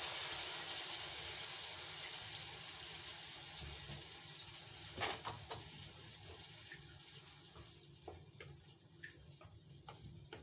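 Food sizzling in hot fat in a frying pan, a hiss that dies down steadily, with a knock of a utensil about halfway through and a few light clicks after.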